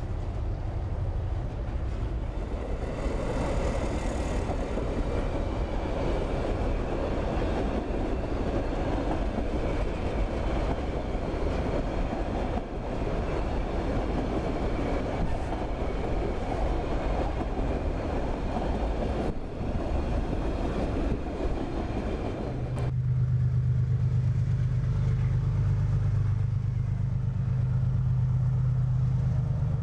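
Freight train's boxcars and hopper cars rolling past close by, steel wheels rumbling and clattering on the rails. About two-thirds through, the sound cuts abruptly to the steady low drone of an approaching diesel locomotive's engine.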